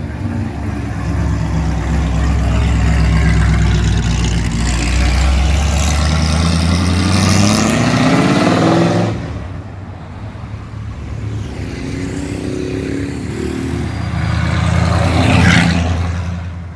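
Ford Galaxie 500's 302 V8, breathing through a custom cross-flow exhaust, driving past with a deep, steady exhaust note. The note rises in pitch as the car accelerates and breaks off suddenly at about nine seconds. The engine then revs up again on a second pull-away, loudest near the end, before fading as the car moves off.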